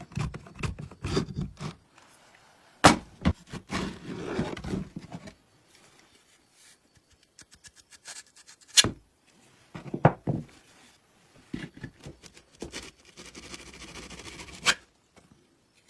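Irregular knocks, clicks and scraping of hand tools and parts being handled during sewing machine repair work, with sharp knocks about three seconds in, around nine and ten seconds, and near the end.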